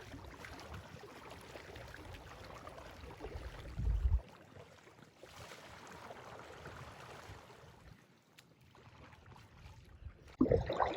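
Water sounds of a Perception Swifty 9.5 DLX recreational kayak being paddled: paddle strokes and water moving along the hull, with a brief low rumble about four seconds in.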